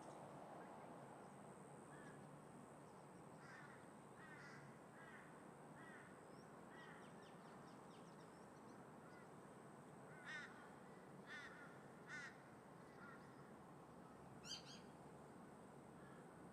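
Crows cawing in short harsh calls, a few at a time, the loudest near the end, over a faint steady background of wind and distant traffic.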